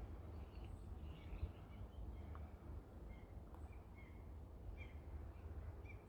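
Faint steady low rumble of distant ocean surf, with scattered faint short bird chirps.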